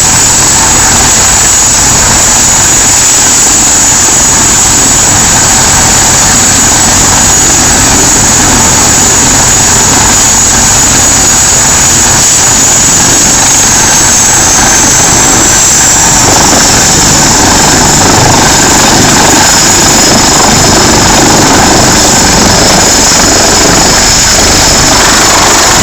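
Helicopter running close by: a loud, steady turbine-and-rotor noise with a high whine that drops in pitch about two-thirds of the way through.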